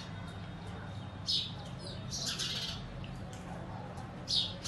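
A small bird chirping: three short, high-pitched bursts, about a second in, near the middle and near the end, over a steady low hum.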